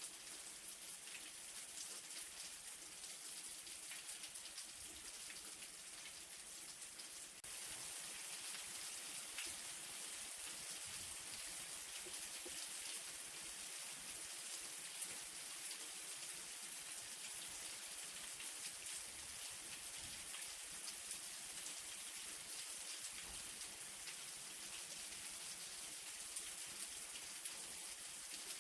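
Light rain falling steadily: an even hiss of drops with many small scattered ticks. It gets abruptly a little louder about seven seconds in.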